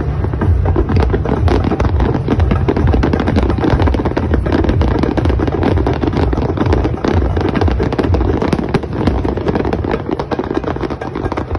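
Fireworks display at full barrage: a dense, continuous run of bangs and crackling as many shells and fountains go off at once, easing a little near the end.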